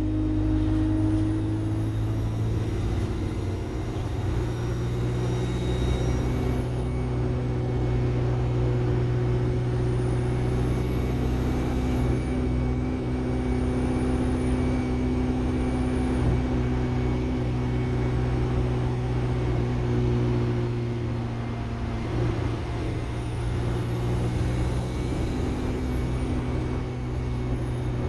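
Alexander Dennis Enviro 200 bus engine running steadily, with a high turbocharger whine that rises and falls four times as the bus accelerates and eases off.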